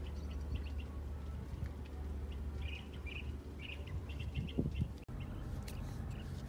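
Small birds chirping in quick clusters of short notes over a steady low hum, with a brief louder noise about four and a half seconds in.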